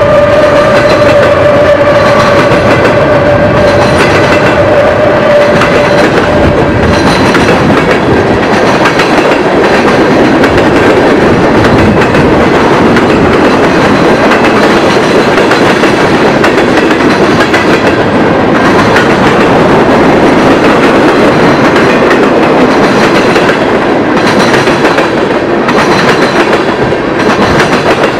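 Freight train cars, covered hoppers and then tank cars, rolling past close by: a steady loud rumble and rattle of wheels on rail. A steady high whine sounds over it and fades out about six seconds in.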